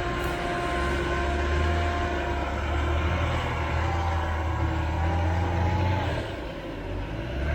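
A motor vehicle's engine running steadily at low revs, with a brief drop in level near the end.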